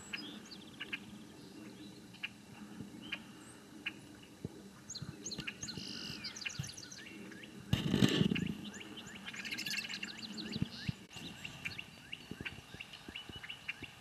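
Songbirds chirping, with stretches of fast trilling notes around six and ten seconds in. A brief loud low rumble comes about eight seconds in.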